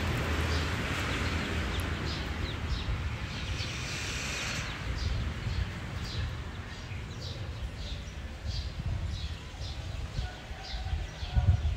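Small birds chirping, short high chirps repeating about once or twice a second, over a steady low rumble of outdoor background noise.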